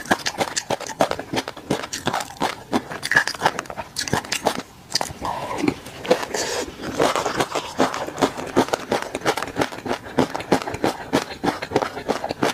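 Close-miked chewing of a mouthful of tobiko (flying fish roe) mixed with peanut sauce: a dense, irregular run of wet crackles and pops, with a short lull a little before the middle.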